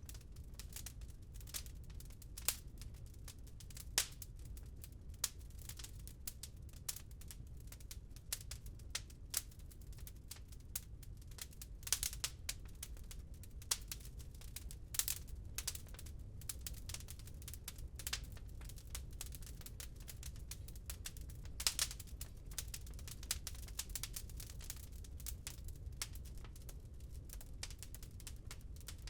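Wood fire crackling in a fireplace: irregular pops and snaps, a few louder ones, over a steady low rumble.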